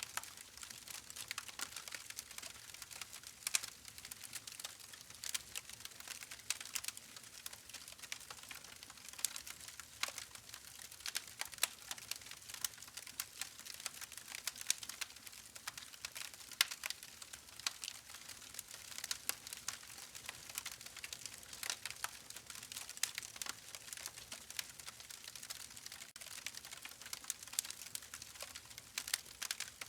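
Campfire burning: wood crackling with frequent, irregular sharp snaps over a soft steady hiss.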